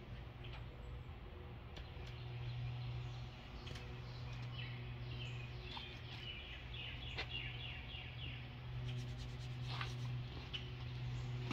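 Birds chirping, with a quick run of chirps in the middle, over a steady low hum and a few faint clicks.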